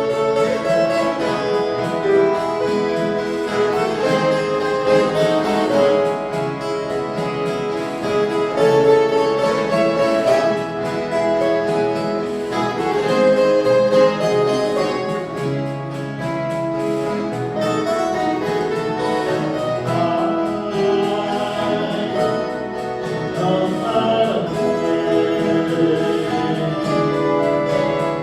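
A viola caipira orchestra playing a Christmas song, many ten-string violas plucked together in chords with a steady beat.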